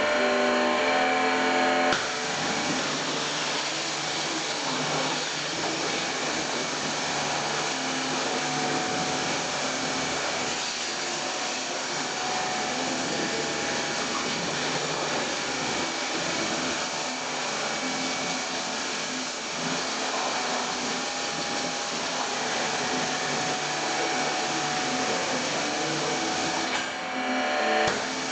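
High-pressure washer spraying a steady jet of water, rinsing engine cleaner off a car's engine bay, with a short break in the spray near the end.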